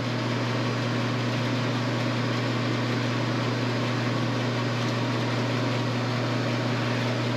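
Steady machine hum with a low drone, unchanging throughout.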